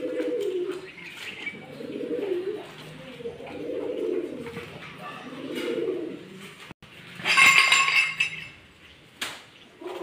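Bird calls: a series of low, soft, cooing murmurs, each under a second long and spaced about a second apart. About seven seconds in comes one louder, higher, ringing call, and a short click follows near the end.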